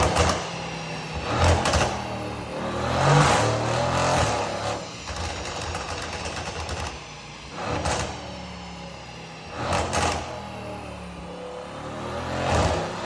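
Mercedes C63 AMG V8 revving up and falling back several times, with sharp exhaust pops and crackles on the overrun, from a stage-one remap with a pops-and-bangs map.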